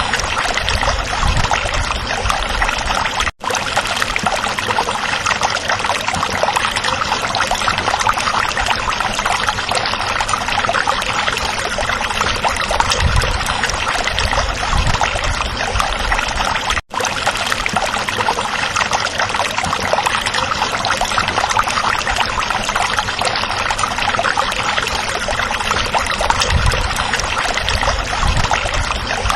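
Stream water flowing and babbling steadily. It cuts out for an instant twice, once about three seconds in and once near the middle.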